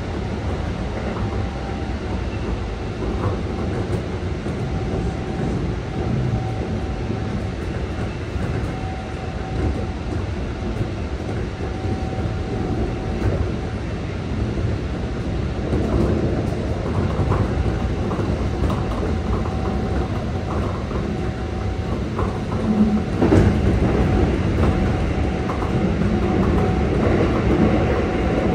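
Running noise inside a Keikyu 600 series commuter train car at speed: a steady rumble of wheels on rail with a steady thin tone held at one pitch, and wheels clacking over rail joints. It grows a little louder about halfway through, with a sharp knock about three-quarters of the way in.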